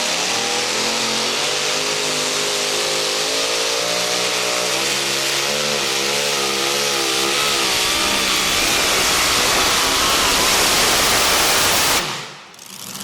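Modified two-wheel-drive pulling truck's engine at full throttle pulling the sled, its pitch wavering up and down as the wheels load and unload, growing louder and harsher, then cutting off abruptly near the end as the pull finishes.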